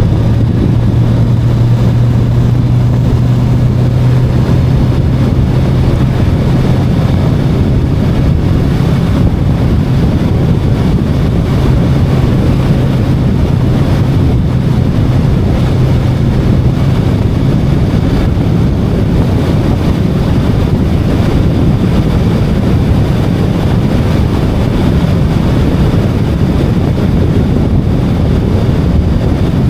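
VOGE 525DSX motorcycle's parallel-twin engine running at a steady cruising pace, with heavy wind rush over the microphone. The steady engine hum sinks under the wind about halfway through.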